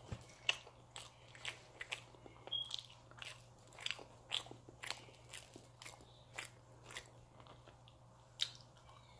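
Close-up chewing of pizza: a steady run of small wet clicks and crunches, about two to three a second.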